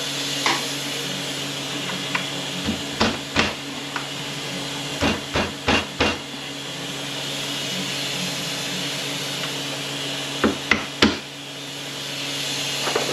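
Sharp metal knocks and taps as parts of an Aisin Warner AW30-80LE automatic transmission are worked loose during teardown, in three clusters of three or four knocks, over a steady low hum.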